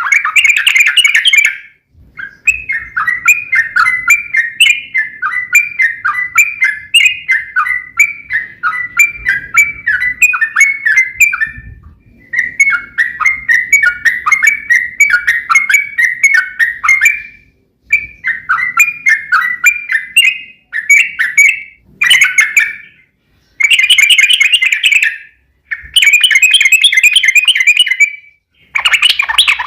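Yellow-vented bulbul (trucukan) singing long, rapid runs of bubbly chattering notes, breaking into shorter bursts with pauses in the second half.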